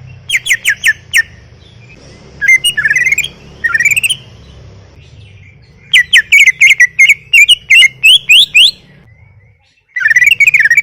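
Greater green leafbird (cucak ijo) in full song: loud bursts of quick, rising whistled notes, in several phrases, the longest lasting nearly three seconds.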